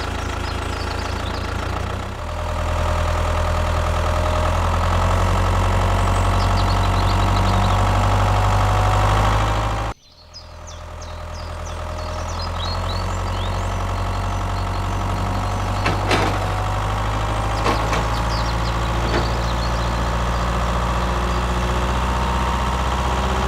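Tractor engine running steadily with a slowly rising pitch. It cuts off abruptly about ten seconds in, then comes back and runs on.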